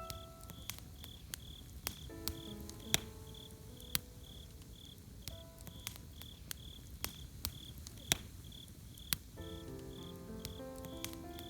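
Campfire crackling with scattered sharp pops, over a cricket chirping steadily about two to three times a second. Soft melodic notes sound around two seconds in and again near the end.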